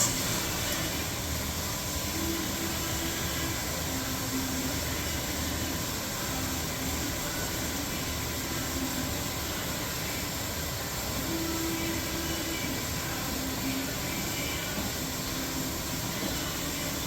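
Electrolux professional washer filling with water at the start of a cold wash: a steady rush of water that starts suddenly, with a low hum that comes and goes.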